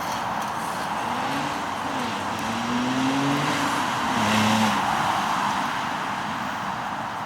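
Audi B8.5 S4's supercharged 3.0-litre V6 through its stock exhaust, the engine note rising and falling a few times. It is loudest about four and a half seconds in, then eases off.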